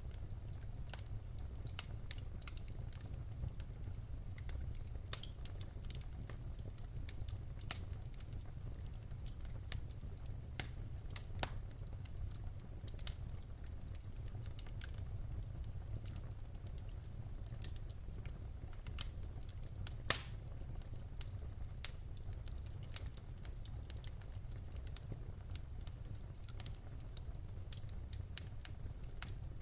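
Wood fire burning in a fireplace: logs crackling with irregular sharp pops over a steady low rumble of the flames, one louder pop about two-thirds of the way through.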